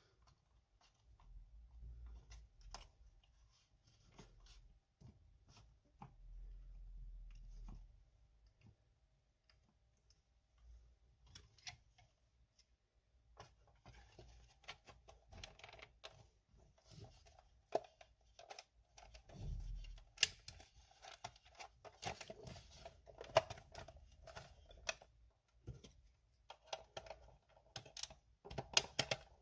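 Faint scattered clicks, taps and rustles of hands handling the plastic parts of a cordless stick vacuum, with a few dull low thumps. The clicking grows busier in the second half.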